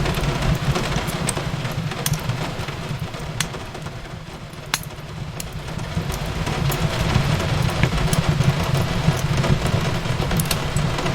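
Fireplace crackling with scattered sharp pops, one louder than the rest about five seconds in, over a steady rush of rain on a window. The rush eases about four seconds in and builds again.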